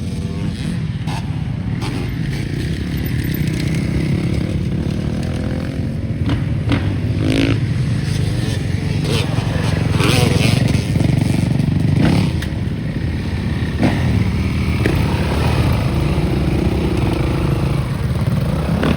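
Dirt bike engine running steadily while riding the off-road trail, with scattered knocks and rattles from the bike over rough ground.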